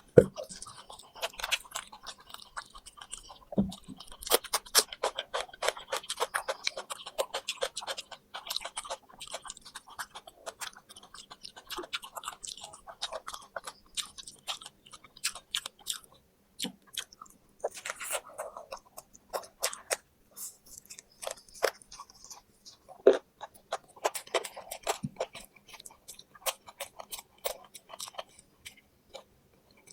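Close-up chewing of crisp fried meat: a steady run of irregular crunches and wet mouth clicks, with a few louder crunches near the start and again about two-thirds of the way through.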